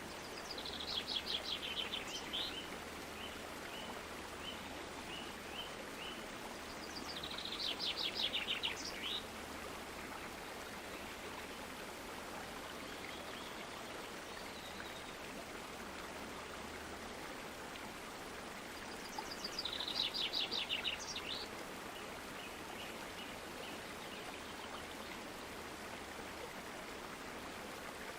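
Steady rush of a flowing stream, with a songbird singing three short, rapid trilled phrases: about a second in, around eight seconds in and around twenty seconds in.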